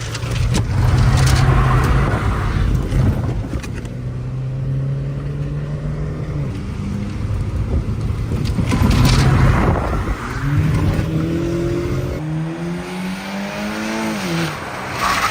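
Front-wheel-drive car's engine running hard while the car is drifted. The engine note holds steady, then climbs for several seconds and drops sharply near the end. Rushes of noise, typical of tyres scrabbling for grip, come about a second in and again around nine seconds.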